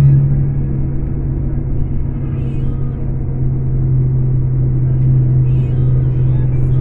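Scania K410 coach's 13-litre six-cylinder diesel engine running with a steady low drone and rumble. It eases off just after the start and builds back up.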